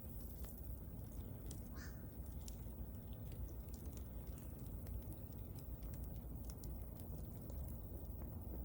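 Bonfire burning: wood crackling with scattered small pops over a low steady rumble. One short bird call about two seconds in.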